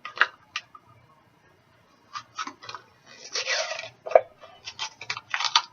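A new bottle of bouillon cubes being opened and handled: a series of sharp plastic clicks and rattles, with a longer rustle about three seconds in and one loud click just after.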